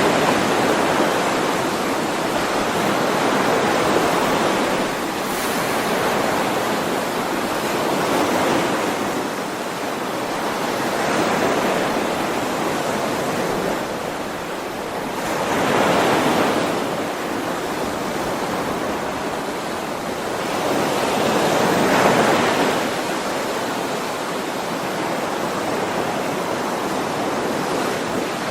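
Ocean waves washing onto a shore: a continuous surf hiss that swells and falls back as each wave comes in, every several seconds, with the biggest swells about halfway through and again near 22 seconds in.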